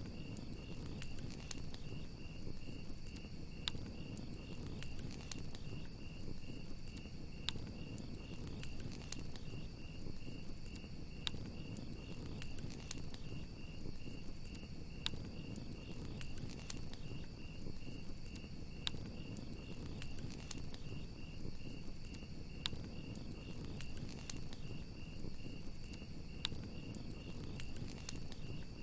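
Crickets chirping in a steady high pulse, about three chirps a second, over a wood campfire crackling with scattered sharp pops and a low rumble from the flames.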